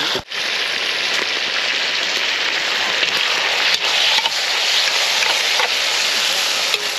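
Food sizzling in a cast-iron Dutch oven over a camp fire: a steady frying hiss, broken by a brief drop-out about a quarter of a second in, with a few faint crackles.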